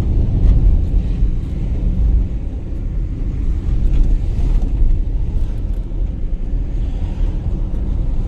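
Steady low rumble of a moving road vehicle: engine and road noise, with some wind buffeting the microphone.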